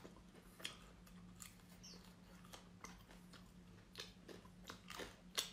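Faint, irregular crisp crunches of cooked insect larvae being chewed, about one or two a second, over a low steady hum.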